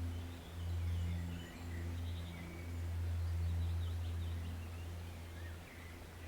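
A forest stream running, with small birds chirping and calling in short phrases throughout, over a steady low hum.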